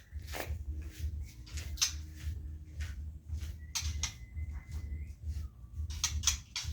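Rapid, repeated scraping and clicking, with a thin whistled bird note held for about a second around the middle and a shorter lower one just after.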